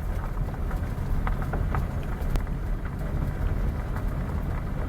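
Steady low rumble of a vehicle on the move, with road and wind noise and a few light clicks.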